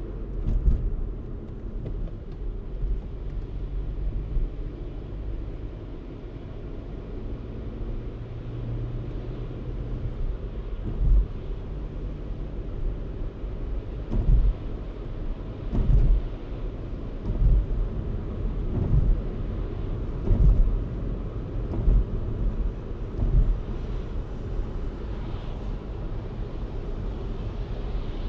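A car driving: a steady low engine and road rumble, with a series of short low thumps about a second or two apart from about 11 to 23 seconds in.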